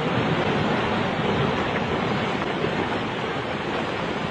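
Steady, even rushing noise without any distinct events, of the kind made by rushing water or strong wind.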